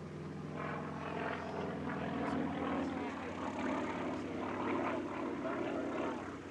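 Yak-50 aerobatic aircraft's nine-cylinder radial engine and propeller in flight, growing louder about half a second in and wavering up and down in pitch.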